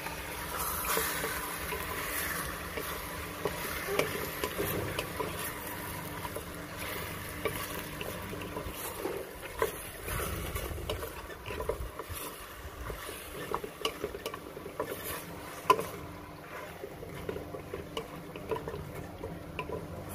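Chicken pieces sizzling in a hot pot with sautéed onion, stirred with a utensil that clinks and scrapes against the pot, with one louder knock about three-quarters of the way through.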